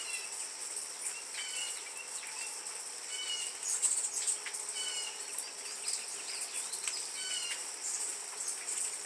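Short, high bird chirps repeated every second or so, over a steady, high-pitched drone of insects.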